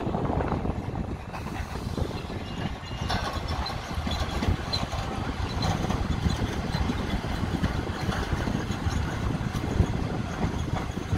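ICF passenger coach running at speed, with a steady rumble of wheels on the track.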